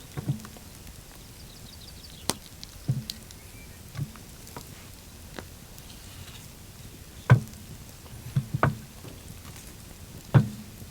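Irregular dull knocks and sharp clicks, about a second or more apart, the loudest near the end.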